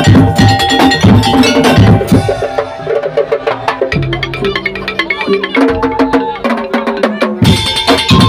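Musik daul percussion ensemble playing loudly. Dense drum and percussion rhythm drops out about two seconds in for a passage of held melodic notes over lighter clicking, then the full percussion comes back in near the end.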